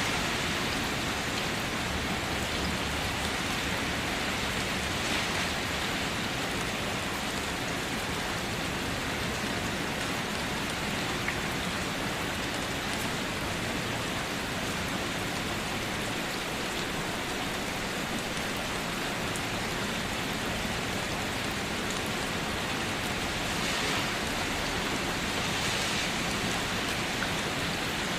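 Steady rain falling on surfaces, an even hiss with scattered individual drop hits and slight swells in intensity.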